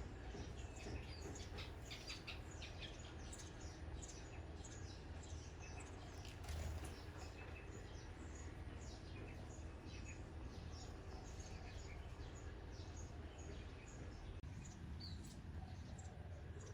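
Sparrow nestling calling from inside its nest: a rapid, continuous run of short, thin, high chirps, several a second, over a low background rumble.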